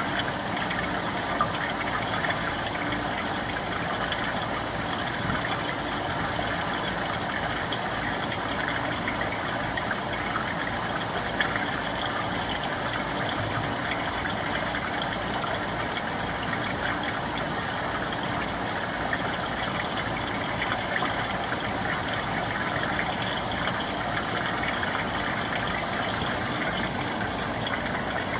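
An engine running steadily at idle, with an even low pulsing.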